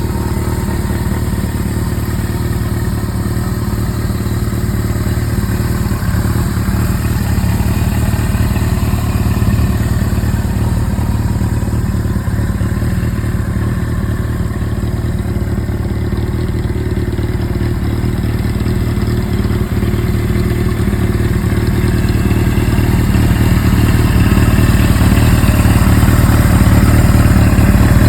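Suzuki GS-series air-cooled inline-four motorcycle engine idling steadily through an aftermarket Tokyo Tekkan exhaust, getting somewhat louder over the last few seconds. Its tachometer and speedometer cables are freshly cleaned and oiled, and the abnormal noise they made is gone.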